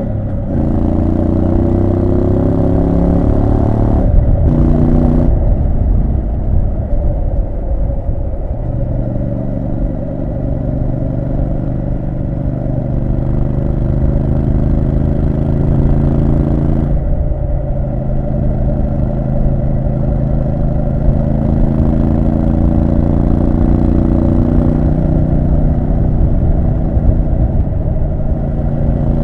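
Triumph Street Scrambler 900's parallel-twin engine pulling under load while riding, its pitch climbing steadily, with a brief break and pitch change from a gear shift about four seconds in and another around seventeen seconds in.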